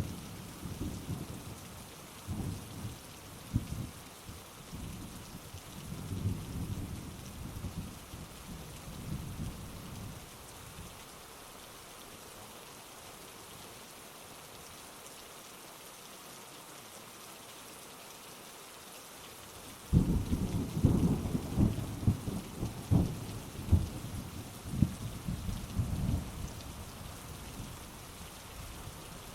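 Steady heavy rain with rolling thunder. The rumbling dies away in the first third, then a sudden loud thunderclap comes about two-thirds of the way in and rolls on for several seconds.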